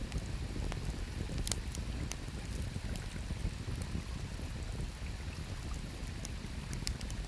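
Campfire wood crackling with a few sharp pops, the strongest about a second and a half in and two more near the end, over the steady low rush of a flowing river.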